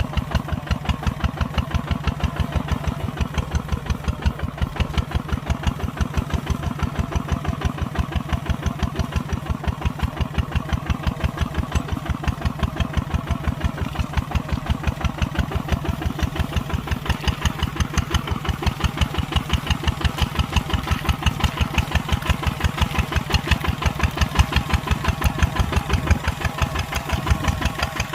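Kubota ZT140 walk-behind tractor's single-cylinder diesel engine running steadily under plowing work, a rapid, even chugging.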